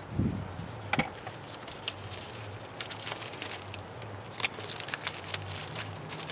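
One sharp knock about a second in, then scattered light clicks and taps at an uneven pace: hand tools and parts being handled during engine-bay dismantling.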